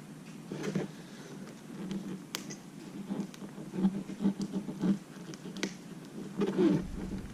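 Cracked iPad mini glass digitizer being slowly lifted off its adhesive: scattered small clicks and light crackling of glass.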